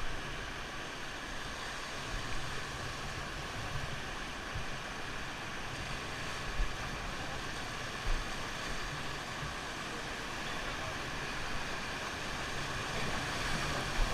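Rushing river water, a steady noise with two short low knocks about halfway through.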